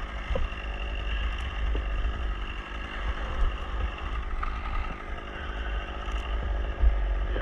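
An engine running steadily, with heavy low rumble, as of wind on the microphone, under it.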